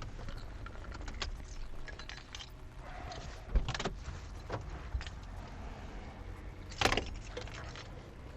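Scattered clicks, knocks and jingling, as of keys and gear being handled, over the steady low rumble of a patrol car. The sharpest knocks come about three and a half seconds in and again near seven seconds.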